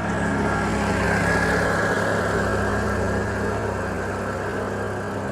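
A motor vehicle's engine running close by with road noise, loudest about a second and a half in and easing off after.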